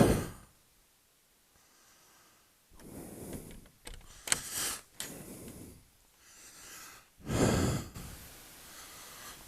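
A man breathing hard: a few heavy breaths a few seconds apart, close to the microphone.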